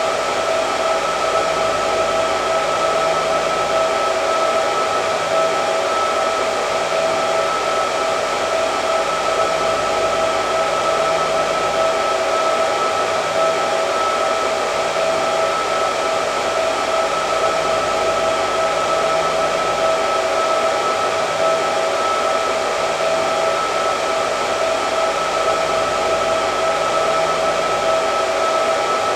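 Hair dryer running continuously: an even rush of air with a steady whine from its motor, unchanging throughout.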